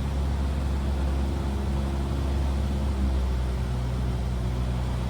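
Cessna 172R's four-cylinder Lycoming engine and propeller running at a steady pitch in flight, heard from inside the cockpit as a constant low drone.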